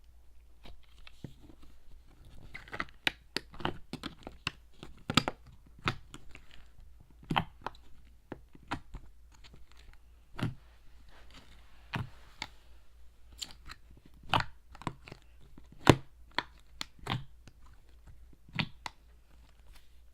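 Slime being pressed, poked and stretched by hand, giving irregular sticky clicks and pops with soft crackling in between.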